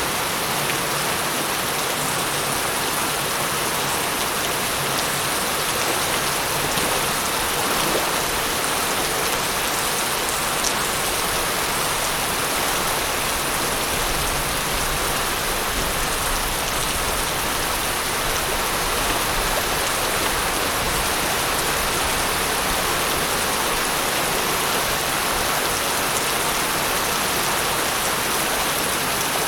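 Steady rain falling and pattering on a surface, even and unbroken, with an occasional single drop ticking out more sharply.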